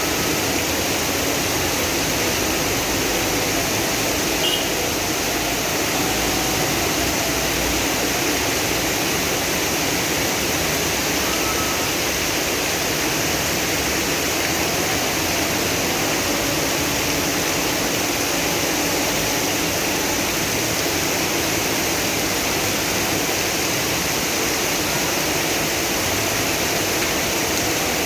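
Steady, even hiss of a heavy tropical downpour with rainwater rushing along the street.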